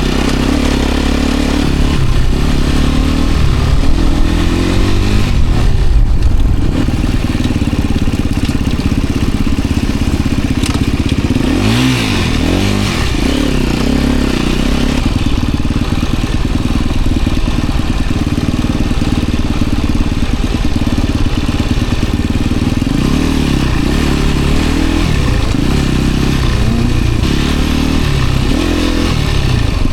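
Enduro motorcycle engine revving up and down again and again as the bike is worked over hard off-road ground.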